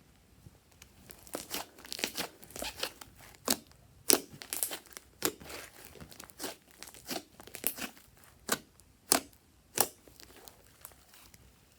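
Slime being handled by hand, giving irregular sharp crackles and pops with short quiet gaps between them.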